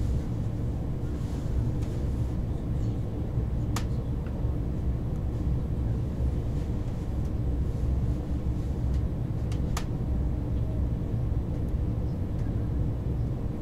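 Steady low rumble of a KTX train running, heard from inside the carriage. Two short sharp clicks come about six seconds apart.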